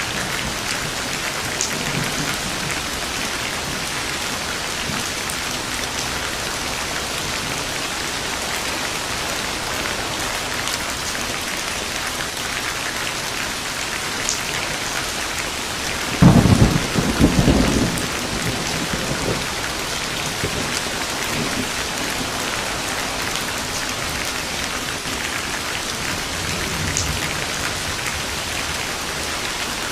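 Steady heavy rain with a close thunderclap about halfway through, a sharp crack followed by a rumble lasting about two seconds, and fainter distant rumbles near the start and near the end.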